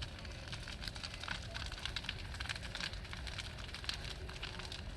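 Large bonfire burning, the wood crackling and popping in irregular sharp snaps over a low steady rumble.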